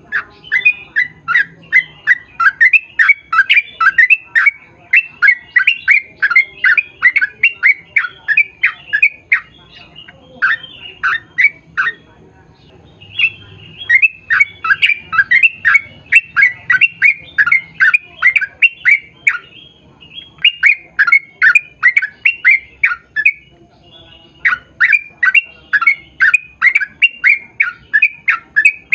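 Yellow-vented bulbul calling in long rapid runs of sharp, repeated chattering notes, about five a second. The runs break off briefly a few times and start again.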